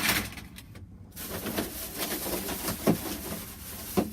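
Model railway track pieces being handled, with a sharp click at the start and a few light knocks after; a steady hiss comes in about a second in.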